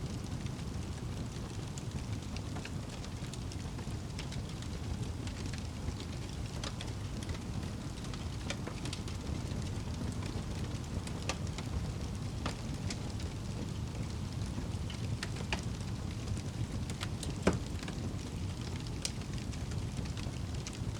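Wood fire burning in a fireplace: a steady low rush of flames with scattered crackles and pops, one loud pop about seventeen seconds in.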